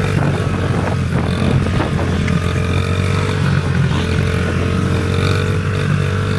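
A child's small motocross-style motorbike engine running at a steady pitch, without any big revs.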